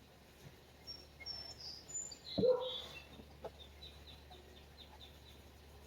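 Birds chirping faintly: a few short high chirps, then a quick even run of chirps. A single clunk about two and a half seconds in is the loudest sound.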